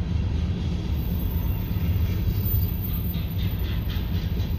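Union Pacific manifest freight train rolling past, tank cars and then loaded centerbeam flatcars, in a steady low rumble of wheels on rail. About three seconds in, a quick rhythmic run of sharp metallic clacks joins it.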